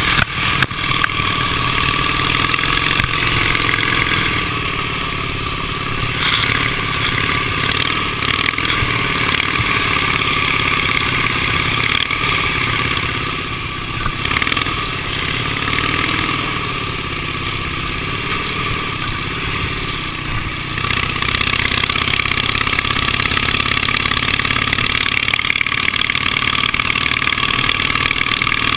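Engine of a 1918 Indian racing motorcycle running at speed, heard from on board over a rush of wind; its note wavers up and down as the throttle is worked, easing a little mid-way and louder again in the last third.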